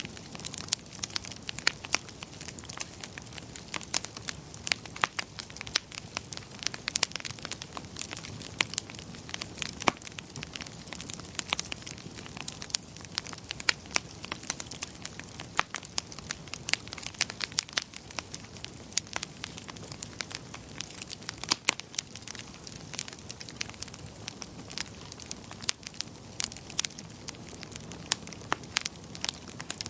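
Wood fire crackling: frequent irregular sharp pops and snaps over a steady low hiss.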